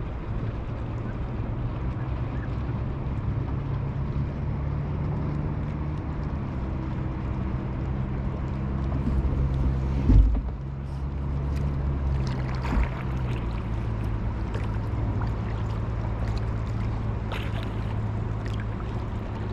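Kayak paddle strokes with water splashing and dripping, and a sharp knock twice, under a steady low mechanical hum that shifts pitch about two-thirds of the way through.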